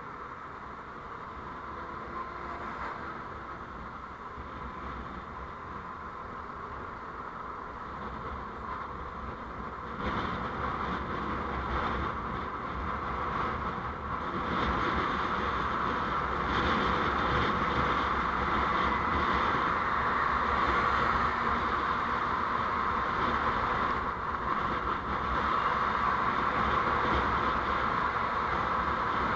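Steady driving noise of a vehicle moving along a road, growing louder in two steps, about a third of the way in and again around halfway.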